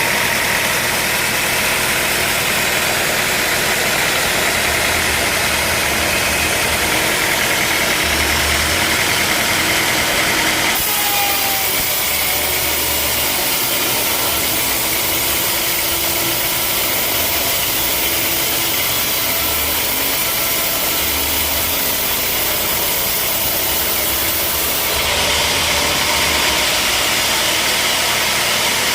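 Sawmill machinery running steadily with a constant engine-like drone and hiss. The sound changes abruptly about eleven seconds in and again near the end.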